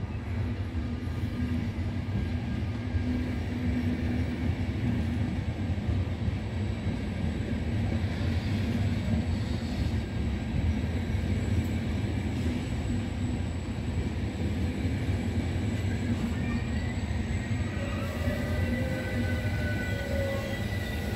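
Electric passenger trains rolling through the station close by: a steady low rumble of wheels on the rails, with a faint steady high whine. High squealing tones join in during the last few seconds.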